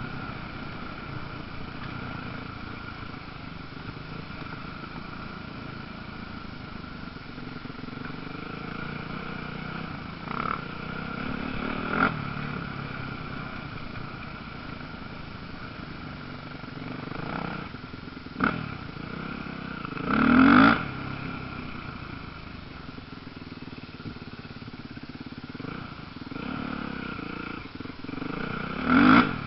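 Motocross motorcycles racing: engines run steadily in the distance while bikes pass close by several times, each pass swelling up and fading within a second or two. The loudest passes come about twenty seconds in and just before the end.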